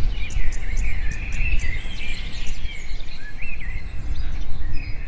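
Small birds chirping in a background nature recording: many short, quick chirps and trills over a steady low rumble.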